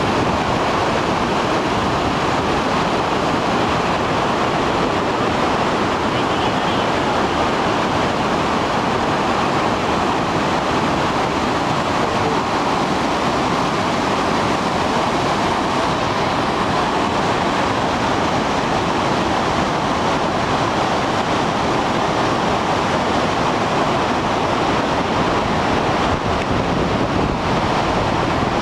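Gullfoss waterfall: steady, loud rushing of falling water, unchanging throughout.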